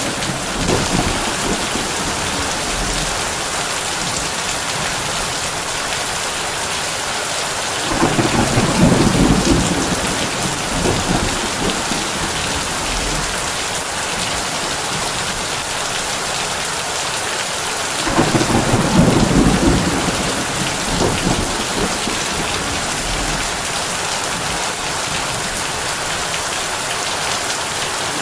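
Heavy rain falling steadily on a tin roof, with a long low rumble of thunder about a third of the way in and another about two-thirds in.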